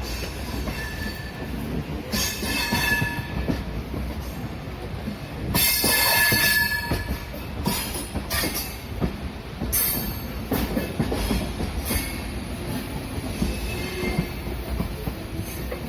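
Passenger train coaches rolling over the points and crossings into a station: a steady rumble of steel wheels on rail with knocks at the joints, broken by bursts of high wheel squeal, the loudest about six seconds in and a shorter one about ten seconds in.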